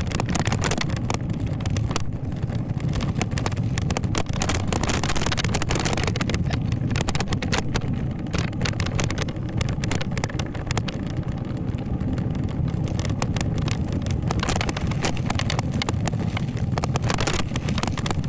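Wind buffeting the microphone while riding a bicycle: a steady low rumble with constant crackling.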